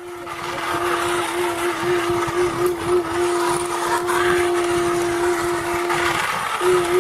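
Battery-operated toy train running on its track: a steady electric-motor hum over a noisy rattle, the hum breaking off briefly about six seconds in.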